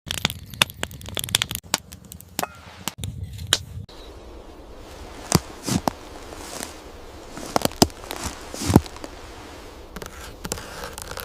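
A quick run of sharp clicks and crackles, then, after an abrupt change about four seconds in, scattered sharp knocks with scraping between them: hand tools working wood.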